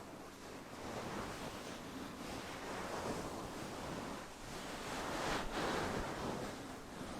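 Fur windscreen on a Blue Yeti microphone being stroked and rubbed close up, a soft rustling that swells and fades in slow sweeps every couple of seconds.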